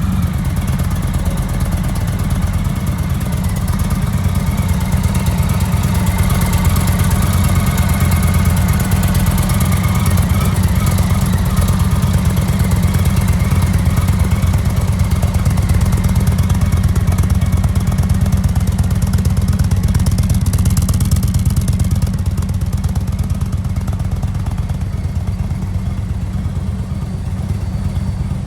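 Indian Chief Classic's 111-cubic-inch (1811 cc) V-twin idling steadily just after being started, with a deep, even running note and no revving.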